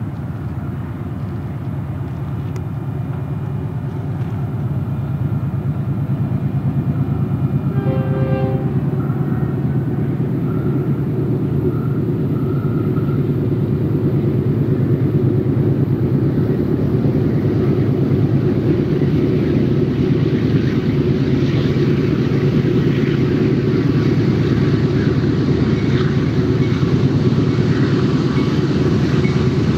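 GE diesel locomotives hauling a double-stack intermodal train approach with a low engine rumble that grows steadily louder as the train nears. The locomotive horn sounds briefly about eight seconds in.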